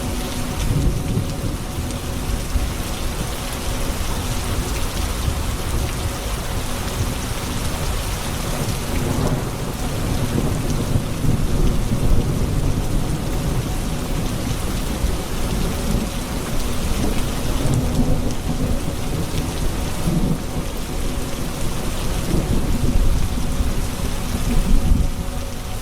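Steady heavy rain with low, rolling thunder rumbling underneath, swelling louder a few times.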